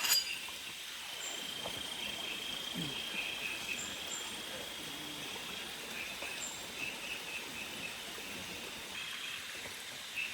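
Forest ambience: insects and birds chirping over a steady hiss, with one insect holding a high buzz for a couple of seconds. A single sharp click sounds right at the start.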